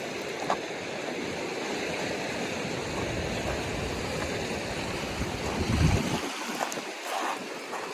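Ocean waves washing on the atoll's reef shore, a steady rushing wash, with wind buffeting the microphone.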